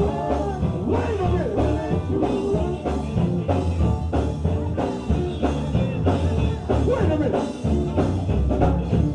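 Live gospel band playing with a steady drum beat and heavy bass under moving melodic lines.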